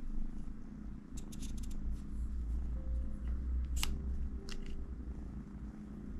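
Small clicks and taps of metal parts of a Tokyo Marui M870 Breacher gas airsoft shotgun, its barrel tubes, being handled. A quick run of light clicks comes about a second in, and two sharper clicks come near the middle, all over a steady low rumble.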